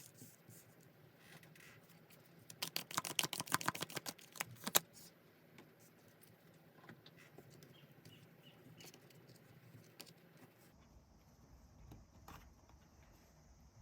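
Tarot cards being shuffled by hand: a quick run of sharp, papery clicks lasting about two seconds, then a few faint scattered taps of card handling.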